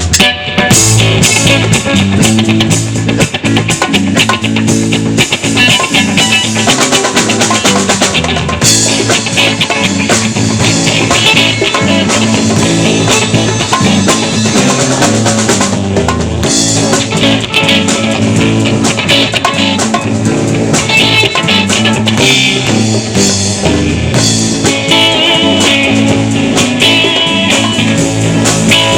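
Live band playing an instrumental passage: drum kit, guitar and bass, loud and continuous, with the full band coming in right at the start after a held chord.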